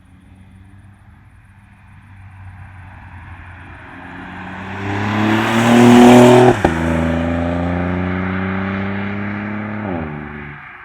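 BMW 120i's B38 three-cylinder turbo engine accelerating hard through a DCE Parts valved catback exhaust with quad tips. The note climbs to its loudest about six seconds in. There is a sharp crack as the pitch drops, it climbs again, then falls away near the end.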